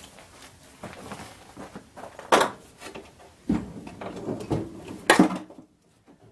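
Irregular clunks and clatter of a car battery being set into its tray and its cables handled, with two sharp knocks, one about two seconds in and one near the end.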